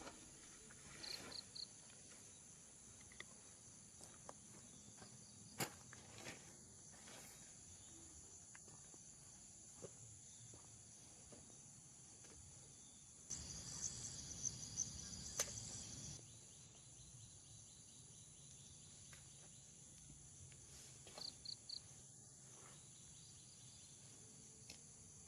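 Faint forest ambience of insects buzzing steadily at a high pitch, with two quick triple chirps and a few scattered clicks. A louder, noisier stretch of about three seconds comes a little past halfway.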